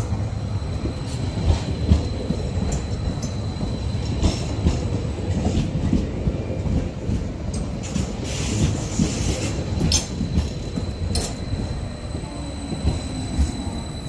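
An MBC electric train pulling into the station and passing close by: its wheels rumble on the rails, with irregular clicks and knocks over the rail joints and a thin steady high whine over it.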